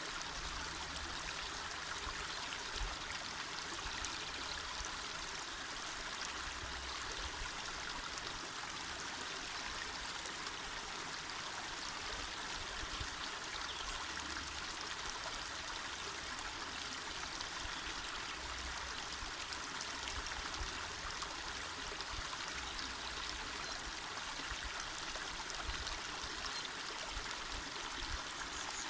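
Small mountain river flowing steadily over stones, a continuous rushing of water with some trickling and gurgling.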